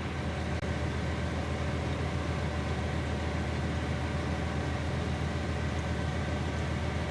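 Idling truck engine running steadily, a constant low hum with no change in pitch.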